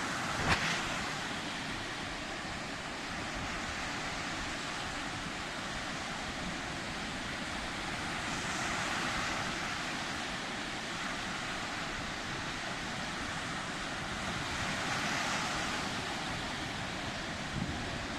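Sea surf: a steady rush of waves, swelling twice as waves wash in. There is a sharp knock about half a second in, and a few small knocks near the end.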